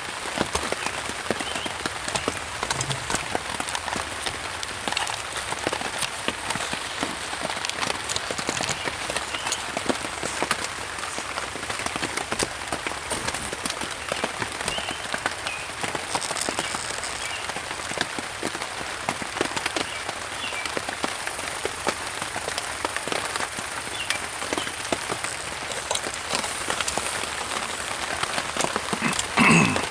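Steady rain hitting a tarp shelter, a constant hiss dotted with many separate drop strikes.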